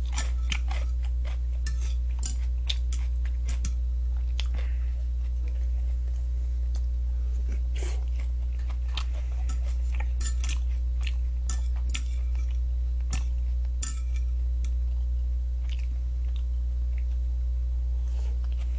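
Close-up chewing and crunching of fried chicken, with irregular clicks of metal chopsticks against the dishes, over a steady low hum.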